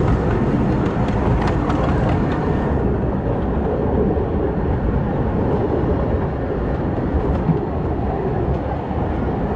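Redwood Valley Railway's 15-inch-gauge miniature steam train running along the track: a steady rumble and rattle of the moving cars, with a few light clicks in the first couple of seconds.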